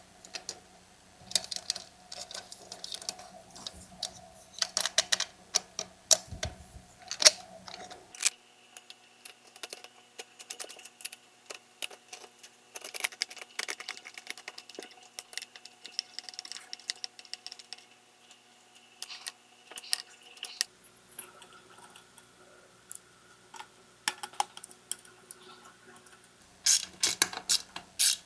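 Scattered sharp metallic clicks and taps of hand tools and small bolts as a muffler is fitted to a Husqvarna 240 chainsaw engine, with a quick run of clicks near the end.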